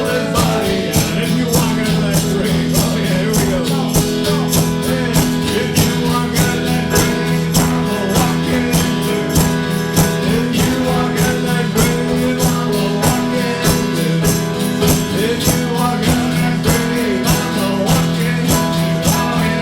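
Band music from a medley of train songs: guitar chords over a steady percussion beat.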